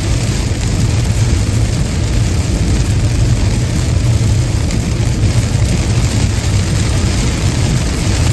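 A car driving on a rain-wet highway: a steady low road rumble with an even hiss of tyres and rain.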